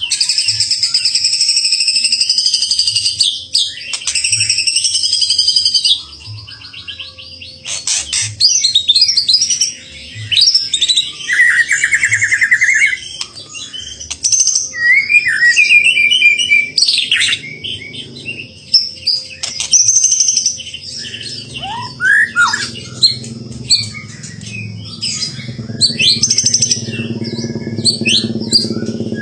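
A caged songbird singing a loud, varied song of rapid trills, buzzy chatter and sharp whistled phrases, with brief pauses between bursts. A low steady hum rises underneath near the end.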